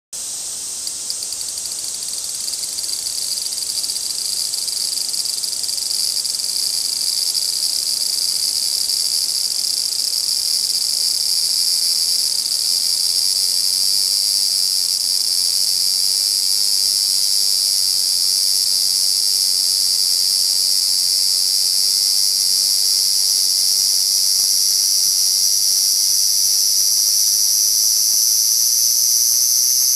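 Large brown cicada (abura-zemi) calling with a continuous high buzz that grows louder over the first several seconds and then holds steady.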